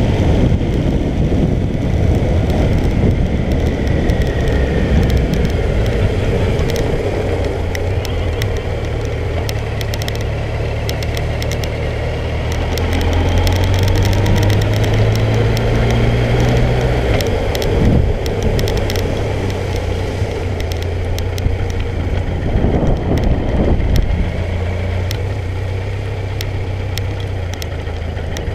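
Suzuki GSX1400 inline-four engine running as the motorcycle rides along, a steady low engine note that grows stronger and then shifts about two-thirds of the way in, under steady road noise.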